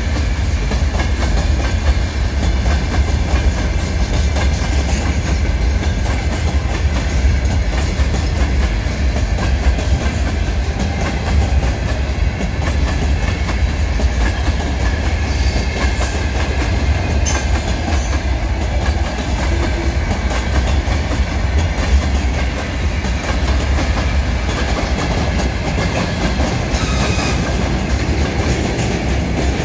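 Freight train wagons (open gondolas, then tank wagons) rolling past at speed, with a steady heavy rumble of wheels on rail and a continuous clickety-clack over the rail joints. A few brief high squeals come about halfway through.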